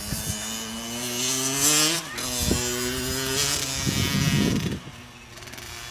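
Kawasaki KX60 two-stroke dirt bike engine revving as the bike accelerates, its pitch climbing, breaking off about two seconds in and climbing again, then fading away near the end.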